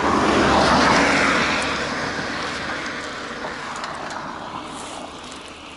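A road vehicle passing by: tyre and engine noise swells to its loudest about a second in, then fades away steadily.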